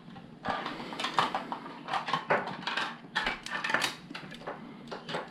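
Small plastic LEGO pieces clattering and clicking as they are handled, in an irregular run of short rattles.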